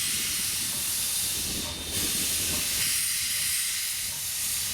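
Steam locomotive hissing steam steadily over a low rumble, the hiss breaking off for a moment about two seconds in.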